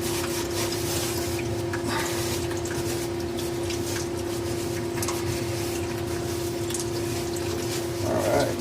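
Water running into a furnace humidifier's reservoir, with a steady hum at one pitch throughout and a few faint rubbing scrapes from scrubbing the mineral buildup.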